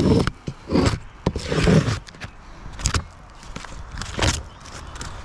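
Hands-on roofing work on the shingles around a leaking pipe boot: a handful of irregular scrapes and knocks, the longest a scraping drag lasting most of a second about a third of the way in.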